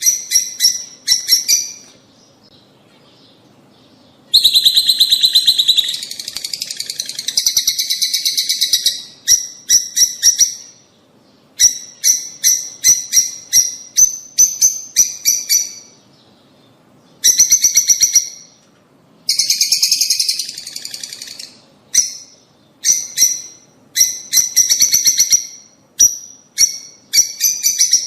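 Lovebirds calling: loud, shrill chirps in rapid runs, with several seconds of dense chatter broken by short pauses.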